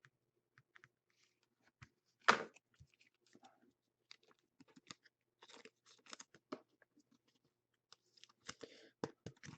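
Trading cards and their plastic sleeves being handled, with scattered faint clicks and crinkling rustles and one sharper click about two seconds in.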